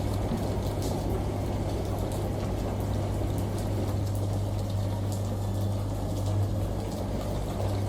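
Washing machine running with a steady low hum under the even rush of running water, with faint scattered ticks.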